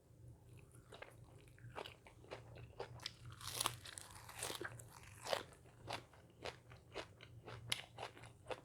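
A person biting and chewing crunchy food, with irregular crisp crunches close to the microphone.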